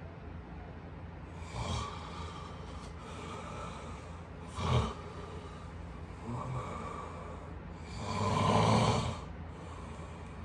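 A person snoring: four snores spaced two to three seconds apart, the last one the longest and loudest.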